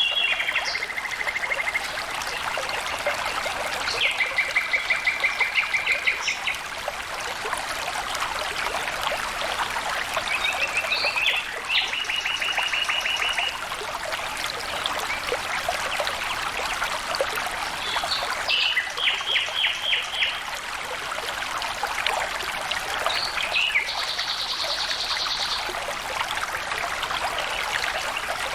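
Stream water trickling and flowing steadily. Over it, a trilled animal call repeats about five times, each call a quick run of pulses lasting one to two seconds.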